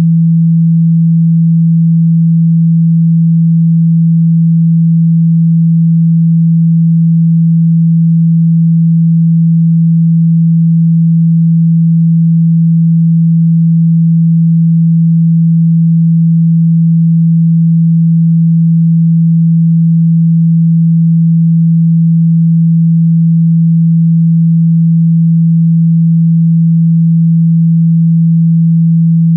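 Loud, steady 165 Hz sine tone, unbroken and unchanging. It is a speaker-cleaning tone, played to vibrate water and dust out of a loudspeaker.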